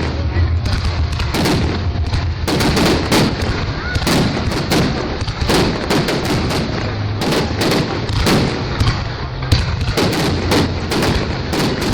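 Fireworks display: many shells bursting in quick, irregular succession, a near-continuous barrage of bangs.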